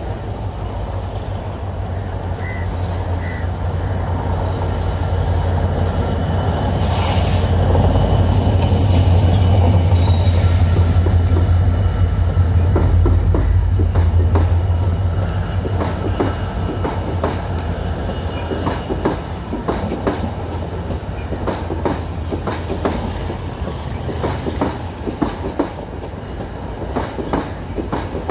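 Diesel-hauled passenger train passing close by on curved track. The locomotive's engine drone builds to its loudest about eight seconds in and eases after about fifteen seconds. The coaches then roll past with a steady clickety-clack of wheels over rail joints.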